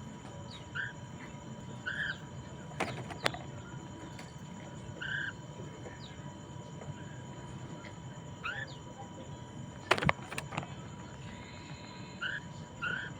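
A poksay mandarin laughingthrush giving short, separate chirp notes every few seconds, some in quick pairs near the end, with a few sharp knocks, the loudest about ten seconds in.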